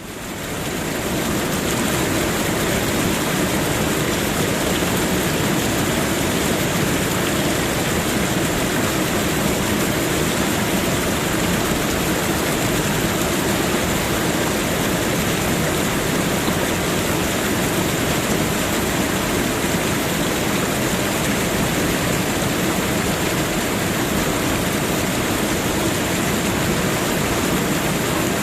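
Steady, even rushing noise with no pauses or changes, fading in over the first two seconds.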